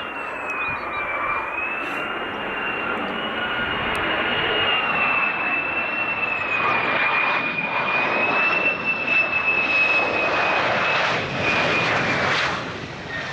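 Fighter jet engine running: a high, slightly wavering whine over a rushing noise that grows louder and peaks around ten to twelve seconds in, then drops off near the end.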